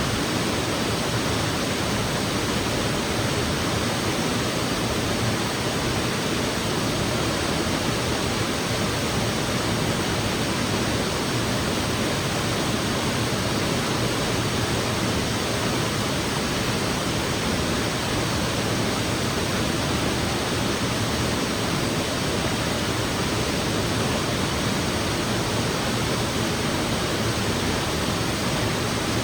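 Waterfall pouring into a creek gorge, a steady, unbroken rush of falling water.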